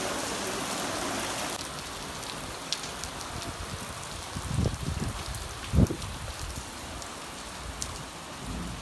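Heavy rain falling steadily onto puddled paving, a constant hiss of drops splashing on the water. About halfway through come two short low bumps, the loudest moments.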